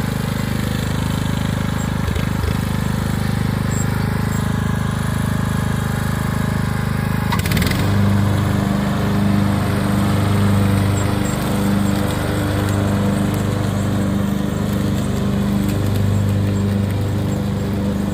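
Riding lawn mower's small engine running steadily. About seven and a half seconds in there is a sharp click, and the engine note shifts to a stronger, pulsing drone.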